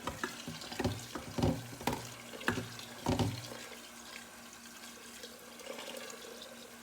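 Tap water running into a pot of raw chicken feet to cover them before scalding. There are several knocks in the first few seconds as the pot and feet are handled.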